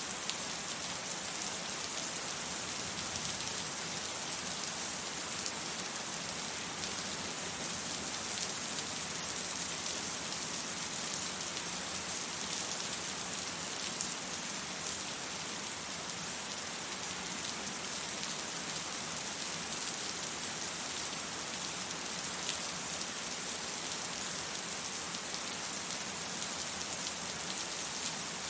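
Steady rain falling and pattering on surfaces, an even hiss with fine drop ticks and no thunder.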